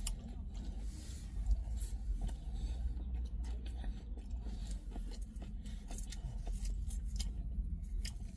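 Someone eating a döner kebab close to the microphone: chewing, with irregular crisp clicks and crunches over a steady low rumble.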